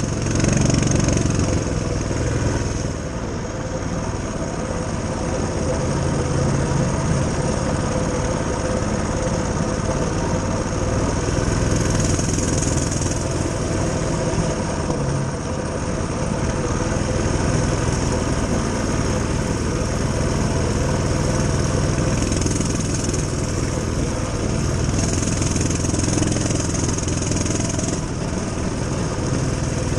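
Coleman CT200U-EXR mini bike's small single-cylinder engine running continuously, its level swelling and easing a little as it is ridden.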